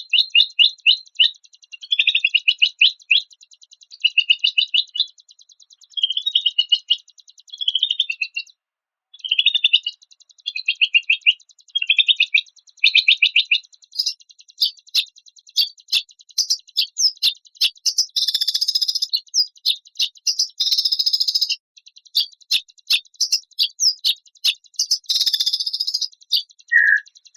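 Recorded songbird song: rapid trilled bursts of chirps, each about a second long, repeated with short gaps; after about the halfway point come scattered sharp chips and three harsh, raspy bursts. These are the harsh 'tembakan kasar' song phrases used as training material for white-rumped shamas.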